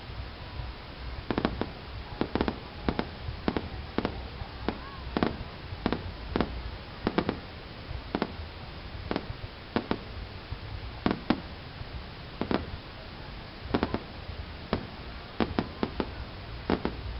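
Fireworks going off: a long string of sharp bangs at irregular intervals, about one or two a second, over a steady low rumble.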